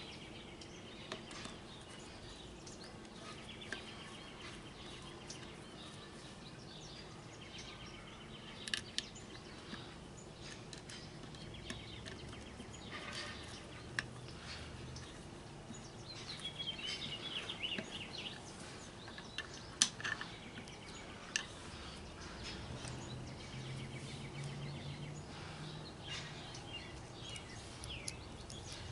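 Scattered light clicks and taps of tools and small metal engine parts being handled, with birds chirping in the background.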